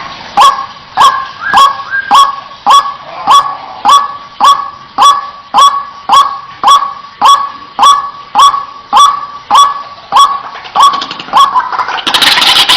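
White-breasted waterhen calling a sharp, repeated 'kwak' note over and over at a steady pace of nearly two calls a second. Near the end a louder, dense jumble of overlapping calls breaks in.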